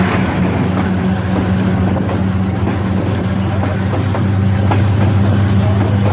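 Diesel locomotive engine running with a steady low hum.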